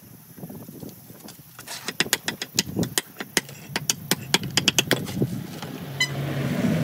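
A quick, irregular run of sharp clicks and knocks, hard objects striking one another, lasting about three seconds. A low steady hum rises near the end.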